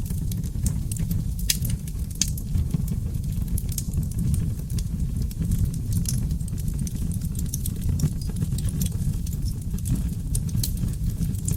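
Seasoned oak logs burning in a fireplace: a steady low rumble of flame with frequent irregular crackles and sharp pops.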